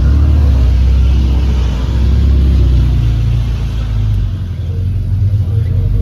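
A car engine running, its sound mostly low-pitched and steady, dipping briefly about four seconds in.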